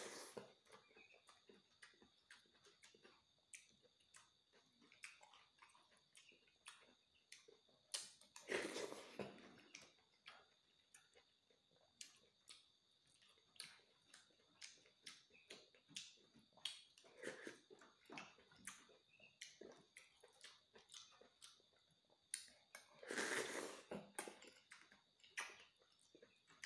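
Close-up eating sounds: wet chewing and lip-smacking clicks of a man eating insect larvae in broth with rice, with louder slurps from a spoon at the start, about eight seconds in and again near twenty-three seconds.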